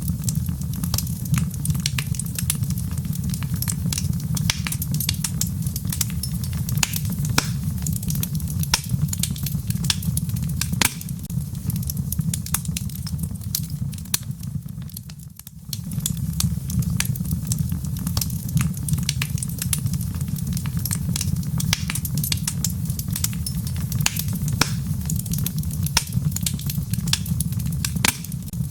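Wood fire crackling, with frequent sharp pops and snaps over a steady low rushing rumble; the sound dips briefly about fifteen seconds in and then carries on as before.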